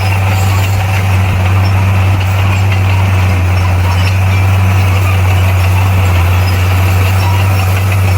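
Diesel engine of heavy earthmoving equipment running steadily with a deep, even note.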